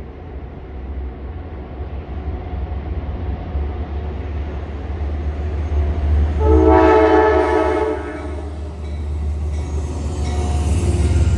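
Approaching train's engine rumble growing steadily louder, with one long blast of its horn about halfway through, lasting roughly a second and a half.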